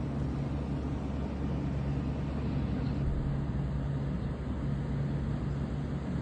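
A steady low mechanical drone with a constant hum and a hiss over it, like a running engine.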